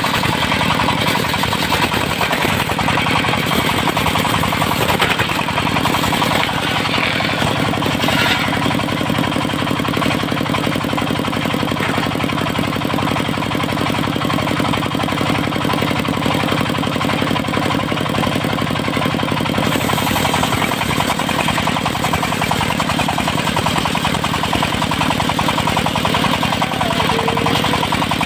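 Engine of a portable circular sawmill running steadily at a constant speed, with a fast, even beat.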